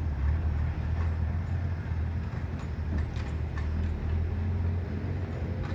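Motor vehicle engine running in the automobile workshop: a steady, low drone that wavers in strength, with a few sharp clicks about halfway through and again near the end.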